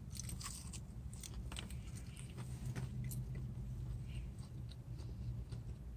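People chewing barbecue-sauced fried chicken tenders, with faint crunching and smacking mouth noises over a low steady hum.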